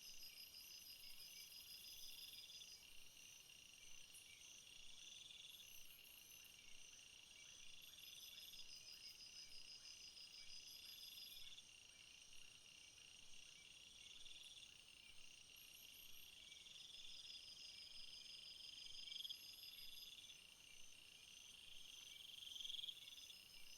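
A faint chorus of crickets and other field insects: several high-pitched chirping and trilling songs overlap, one of them a buzzing phrase that swells and repeats about every two seconds.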